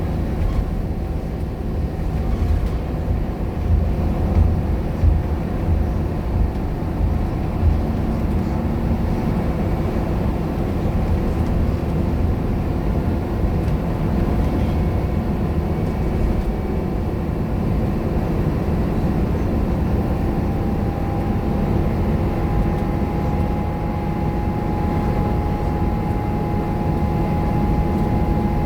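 Scania K230UB single-deck bus under way, its five-cylinder diesel engine running with a steady drone and road noise. A steady whine comes in about twenty seconds in and holds.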